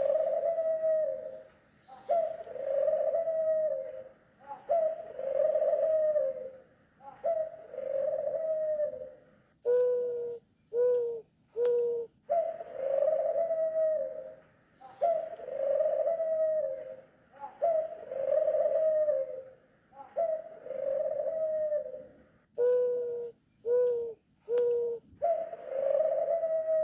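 Turtle doves calling: a run of drawn-out calls about a second and a half long, repeating roughly every two seconds, twice broken by a quick group of four short clipped notes.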